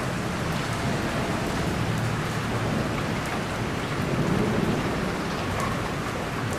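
Steady rain with a low rumble of thunder that swells about four seconds in.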